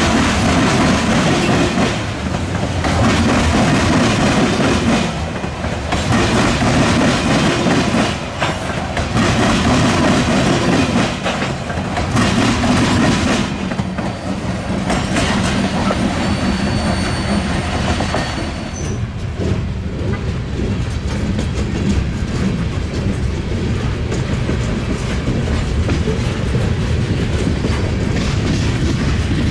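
Freight train cars rolling past, their steel wheels clattering as they cross a railroad diamond, with a steady rumble underneath. The clatter thins out more than halfway through, leaving a smoother rolling rumble.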